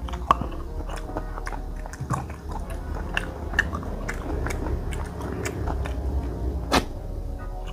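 A person chewing goat satay and rice with wet mouth clicks and smacks, the sharpest just after the start and again near the end.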